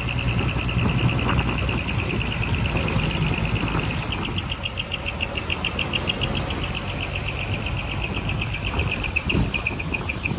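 Heavy diesel construction machinery running steadily with a low rumble, over a fast, even, high-pitched chirping that pulses many times a second.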